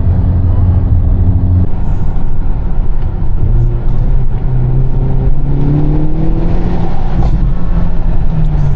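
Car engine and road noise heard from inside the cabin, running steadily at first, then rising in pitch from about a third of the way in as the car speeds up.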